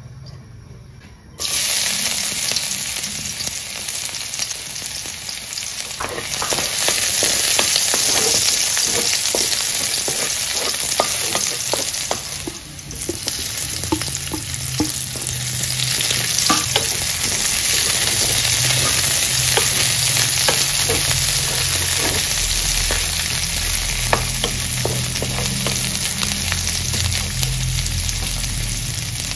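Chopped garlic and red onion sizzling in hot oil in a wok, stirred with a wooden spatula that clicks and scrapes against the pan. The sizzle starts suddenly about a second and a half in and dips briefly about halfway through.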